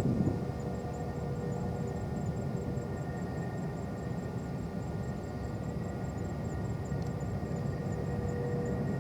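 Distant jet airliner engines: a steady rumble with a faint steady whine above it.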